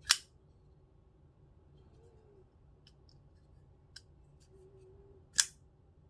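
QSP Parrot pocket knife's blade being worked on its pivot: two sharp metallic clicks about five seconds apart, one right at the start and one near the end, with a fainter click and small ticks between.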